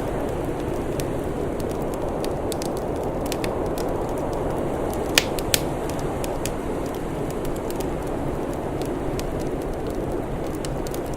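Wood fire crackling, with scattered light snaps and two sharp louder pops about halfway through, half a second apart, over a steady low rushing noise.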